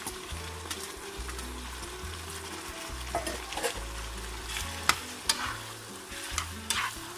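Diced boiled chicken, carrots and onion sizzling in butter and oil in a wok. A plastic slotted spatula stirs them, scraping and knocking against the pan several times in the second half.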